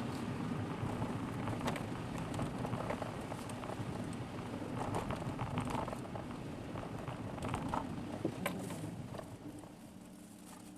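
Road noise of a car on a rough, gritty mountain road, heard from inside the car: a steady low rumble from the tyres with many small clicks and crackles from grit under them. It quietens near the end.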